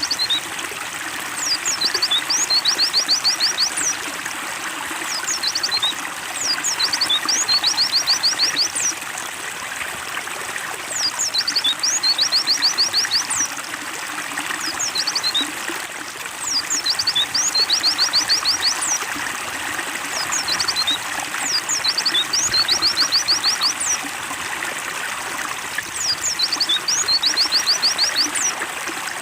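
Trickling water under a white-eye (pleci) singing. Its high song is a few quick chirps followed by a rapid run of about eight notes, and the same phrase comes again about every five seconds.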